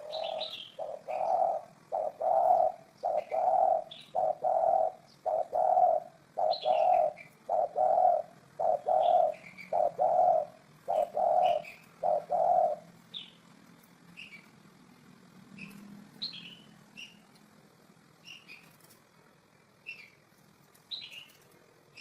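Spotted dove cooing: an even series of about a dozen low coos, roughly one a second, that stops about two-thirds of the way through. Short high chirps from other small birds sound throughout.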